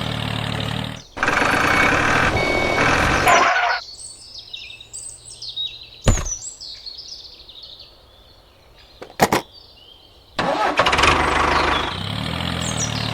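A vehicle engine running, broken by abrupt cuts. There are a few seconds of engine and noise, then a quieter stretch of about six seconds with high chirps and two sharp clicks. The engine comes back loud for the last few seconds.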